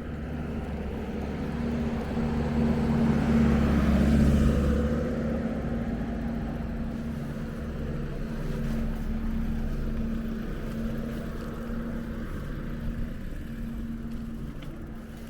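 A motor vehicle passes close by, its engine and tyre noise swelling to the loudest point about four seconds in and then fading, over a steady low engine hum.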